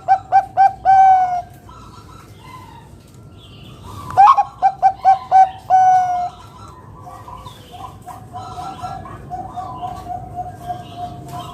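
Zebra dove (perkutut, Bangkok type) cooing loudly. It gives two phrases of quick staccato notes, each ending in a longer held note, about four seconds apart. A fainter run of soft notes follows.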